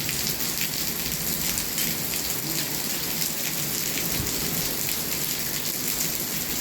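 Steady rain falling, with many small drop hits over an even hiss.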